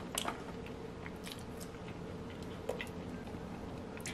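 A person chewing crinkle-cut fries, faintly, with a few soft crunches and clicks scattered through.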